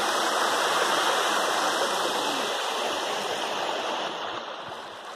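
Waterfall in monsoon flow: steady rushing water, growing somewhat quieter near the end.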